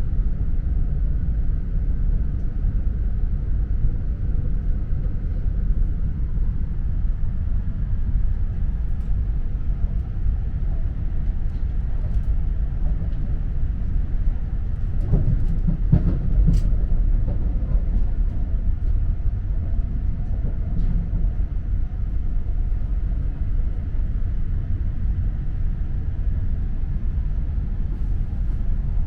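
Cabin noise of an E4 series 'Max' double-decker Shinkansen running, heard from a lower-deck seat: a steady low rumble of the running gear. The rumble swells briefly about 15 seconds in, with a sharp click about 16 seconds in.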